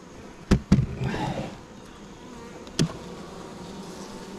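Honeybees buzzing steadily around an open hive, broken by two sharp knocks about half a second in, a brief rustle, and another knock near three seconds.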